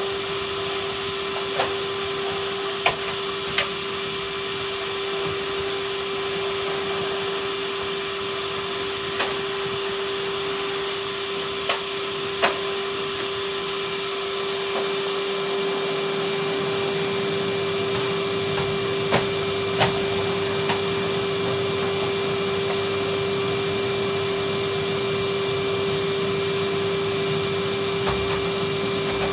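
Vacuum cleaner running steadily, a constant motor whine over a rushing hiss, with a few short sharp ticks scattered through it.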